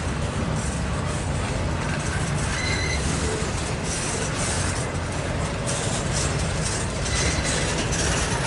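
Double-stack intermodal well cars rolling past at track speed, a steady rumble and rattle of steel wheels on rail. A short high wheel squeal comes about three seconds in, and a fainter one near the end.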